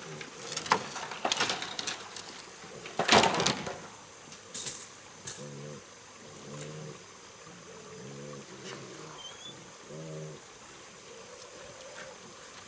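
A pig grunting: short, low grunts repeated every second or two. Over the first few seconds there are sharp crackling and rustling noises, the loudest about three seconds in.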